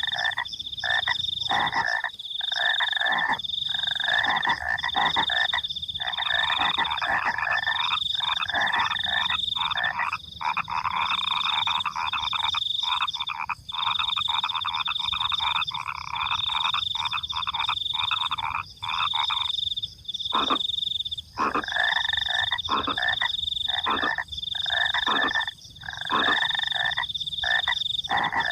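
A chorus of frogs calling densely, breaking off in short gaps, over a cricket's high trill that pulses in stretches of under a second.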